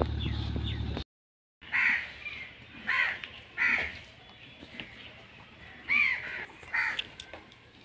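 A steady low machine hum that cuts off about a second in, then a bird cawing about five times at uneven intervals, each a short harsh cry.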